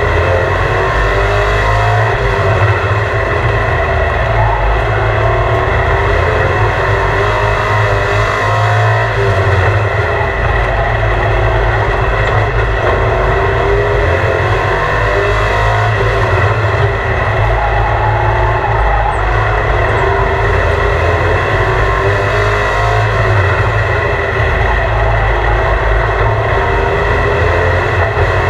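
Race truck's engine running continuously at a steady loudness, its pitch rising and falling slowly.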